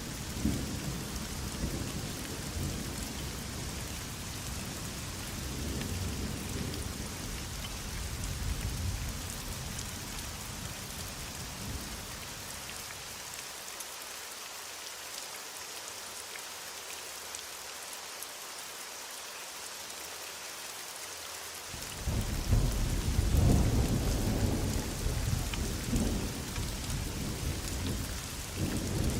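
Heavy rain falling steadily, with rolling thunder. The thunder dies away into a lull of rain alone near the middle, then a louder clap breaks in about two-thirds of the way through and rumbles off.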